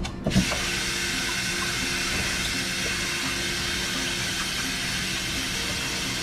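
Water running steadily from a tap, starting suddenly at the outset.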